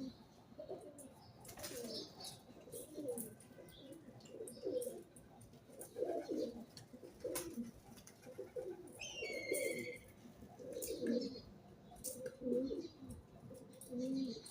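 Pigeons cooing: low, rolling coos repeated about once a second throughout. A small bird gives a short higher chirp a little past the middle.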